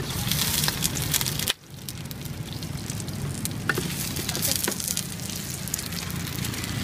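Round dough cakes frying in oil on a wide flat metal pan over a wood fire, sizzling steadily with scattered crackles. The sound drops out briefly about a second and a half in.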